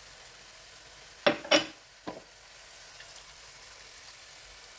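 A tomato, garlic and shallot paste frying gently in a nonstick wok with a steady soft sizzle. Three sharp knocks come close together about a second and a half in.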